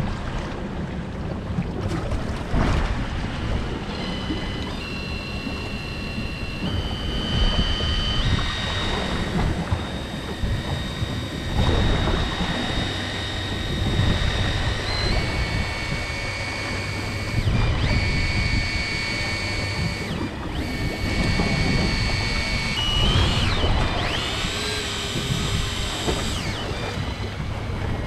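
Wind on the microphone and a boat running on the open sea, a steady low rushing noise. From about four seconds in, high steady tones hold and then change pitch in steps over it.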